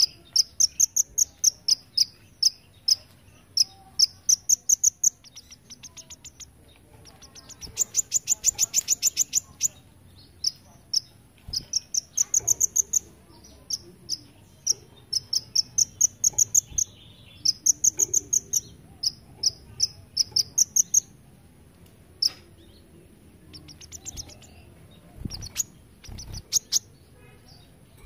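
A kolibri ninja sunbird singing: rapid strings of sharp, high chirps and short rising trills, repeated over and over. About eight seconds in there is a fast, insect-like buzzing trill, and the notes come more sparsely after about twenty-two seconds.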